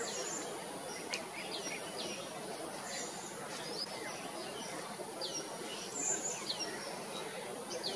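Birds chirping: short high calls, many falling sharply in pitch, scattered every second or so over a steady background hiss.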